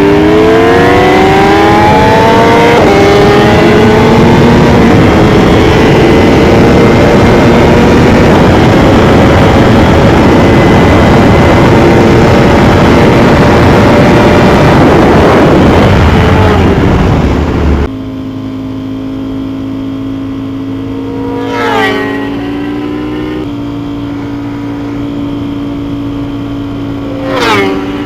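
Sport motorcycle accelerating hard, its engine note rising and shifting up a gear, then a loud steady rushing noise at high speed. About 18 seconds in it cuts to a quieter, steady engine note with two short revs.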